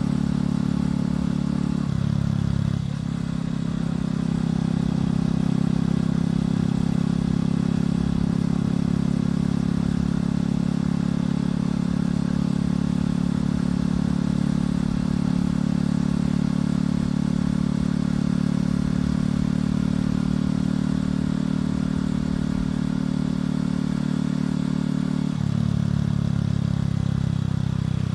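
Motorcycle engine and exhaust running steadily under way. The engine note changes briefly about two seconds in and again near the end, as the revs shift.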